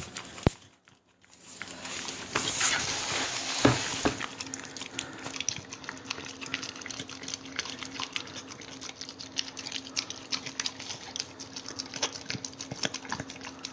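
Dog licking peanut butter: a dense, rapid run of small wet smacking clicks that starts about a second and a half in and carries on, with a single heavier knock a little later.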